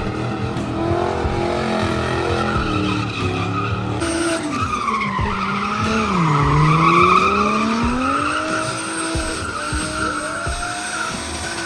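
Car doing a burnout: engine revving hard with tyres squealing. The engine note drops about halfway through and climbs again.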